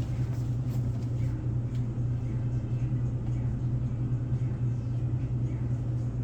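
Steady low mechanical hum with an even rumble beneath it, and a few faint clicks in the first second.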